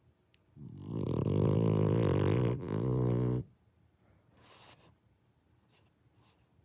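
French bulldog snoring: one loud, rattling snore on the in-breath lasting about three seconds, with a brief catch partway through, then a softer, breathy out-breath. Such snoring is typical of the breed's short, flat muzzle.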